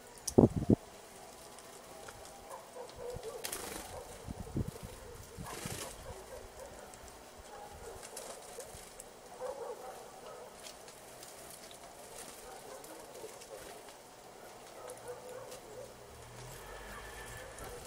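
Faint bird calls outdoors, with two loud, low thumps just after the start.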